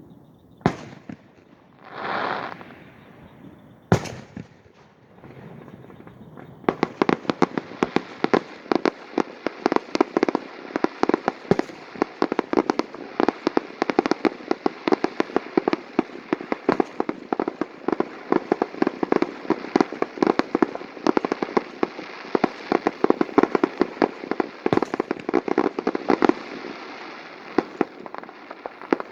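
Fireworks: a sharp bang, a short rushing hiss, and another bang, then from about seven seconds in a dense, continuous crackle of rapid pops.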